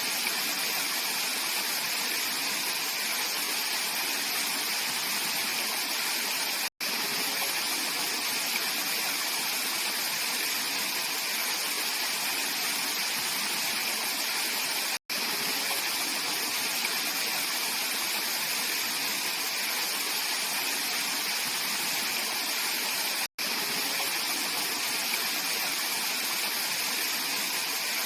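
Mountain stream rushing steadily over rocks, an even hiss of running water. It drops out to silence for an instant three times, about every eight seconds.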